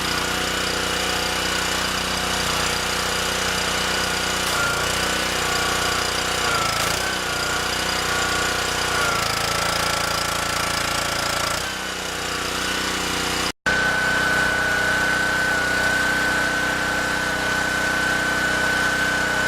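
A machine running steadily with a rattling drone and a high whine. It cuts out for an instant about two-thirds of the way through, then carries on with the whine slightly higher.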